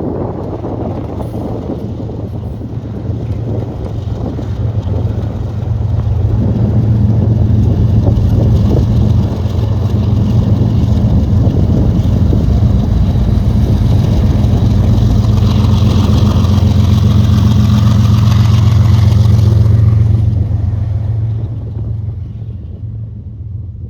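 Diesel locomotive engine running with a steady low hum as the train passes beneath the bridge. It grows louder about five seconds in, holds, then fades near the end.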